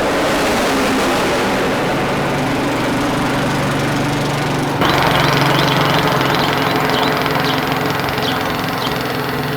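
An engine running steadily, with a low hum and a rough hiss that grows louder and brighter about halfway through.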